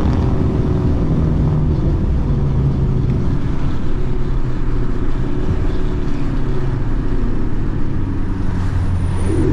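Car engine and road noise while driving: a steady low drone whose pitch drifts only a little, with no hard revving.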